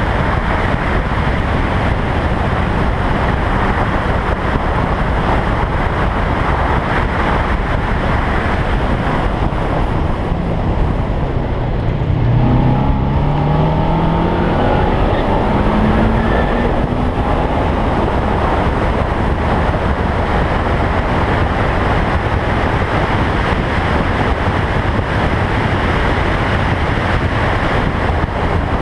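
Toyota Trueno racing car at speed, picked up by a camera mounted outside the car: a steady rush of wind and road noise, with the engine note rising in pitch under acceleration about halfway through.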